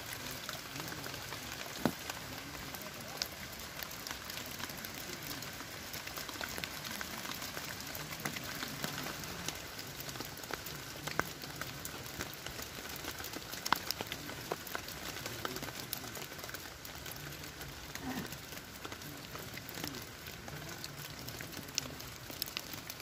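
Steady rain falling on forest leaves and undergrowth: an even hiss with many scattered sharp ticks.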